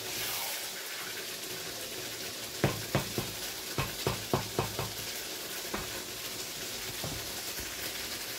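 Chicken karahi frying in a wok with a steady sizzle, while a spatula stirs it and knocks against the pan, about ten clacks in quick succession in the middle.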